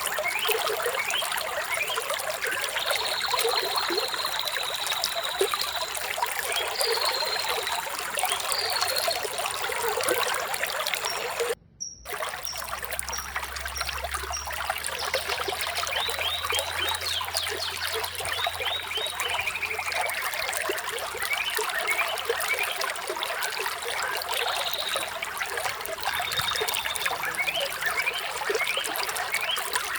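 Flowing water trickling steadily, with small birds chirping and trilling over it. The sound cuts out for a fraction of a second a little before the midpoint, then resumes.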